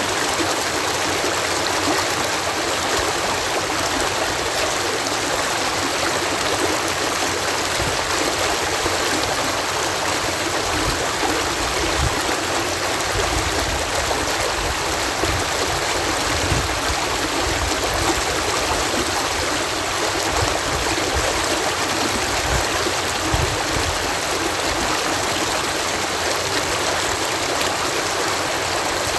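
Water cascading through a canal lock, a steady, even rush.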